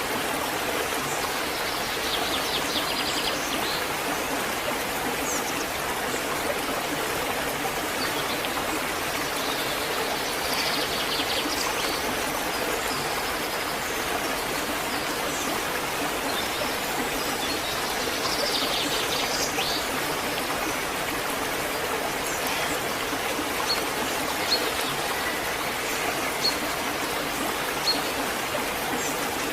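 Waterfall rushing steadily, with birds chirping in short bursts now and then.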